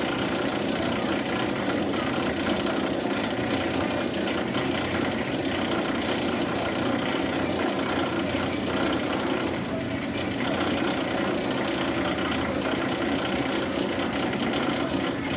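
Shop machinery running with a steady, even hum made of several fixed tones.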